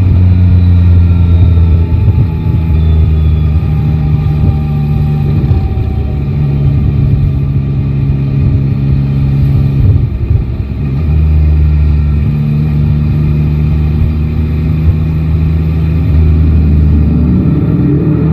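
Yamaha Tracer 9 GT's 890 cc inline-three engine running while riding, its note holding steady for stretches and dipping and changing pitch a few times, most clearly about ten seconds in.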